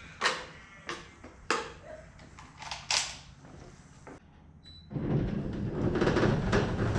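A few sharp knocks and clicks of handling on the motorcycle, then a short high electronic beep. About five seconds in, a loud steady rumble starts suddenly: the Honda CB400 motorcycle running with wind noise.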